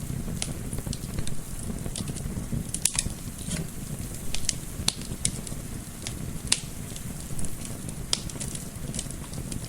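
Wood fire crackling: irregular sharp snaps and pops, a few a second, over a steady low rumble of flame and soft wind.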